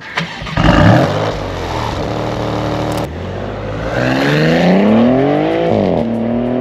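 Maserati GranTurismo Modena's twin-turbo 3.0-litre V6 engine gives a short burst of revs and then settles into a steady idle. Later it accelerates with a rising pitch, which drops sharply at an upshift near the end before climbing again.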